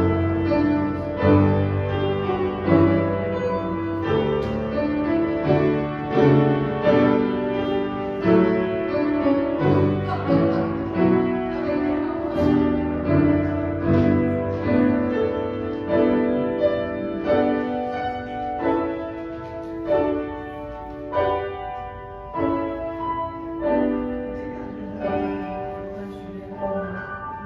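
Instrumental piano music, a steady run of struck notes that grows quieter near the end.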